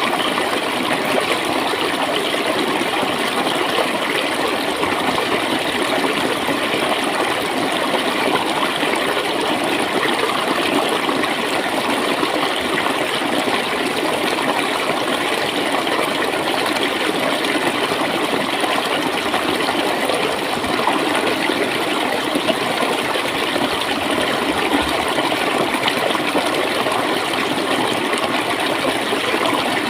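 Running stream water gurgling and splashing at a steady level, with no breaks.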